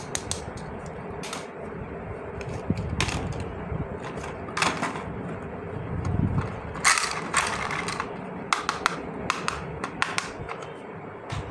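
Plastic toy parts being handled: irregular clicks, taps and short scrapes over a faint steady hum.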